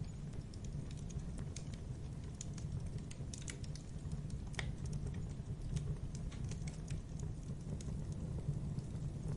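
Wood campfire crackling: irregular sharp pops and snaps over a steady low rumble of the burning fire.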